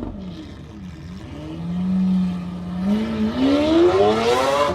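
A car engine revving through its exhaust. The pitch falls and settles for a moment, then climbs steadily as the engine revs up hard.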